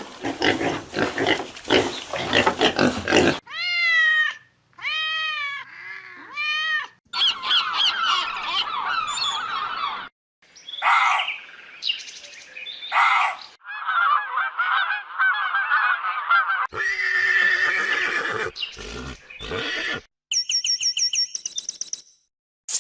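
A string of short, separate animal calls cut one after another, each a different kind. They include rasping pulses, four arching high calls a little before the middle, chattering and warbling cries, and a quick series of high pulsed notes near the end.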